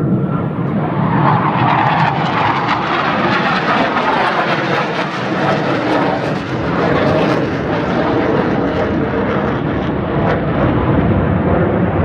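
Fixed-wing airplane flying past with a loud, steady engine roar, its pitch sweeping downward over the first few seconds as it passes.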